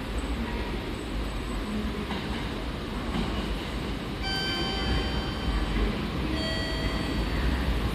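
Kintetsu 2680 series electric train rumbling into a station. From about four seconds in, a steady high brake squeal sounds over the rumble; it drops in pitch once about two seconds later and fades near the end.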